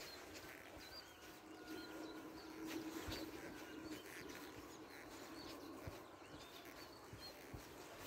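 Birds chirping faintly in short, repeated high calls, with a few soft low thuds like footsteps and a brief low steady hum about two seconds in.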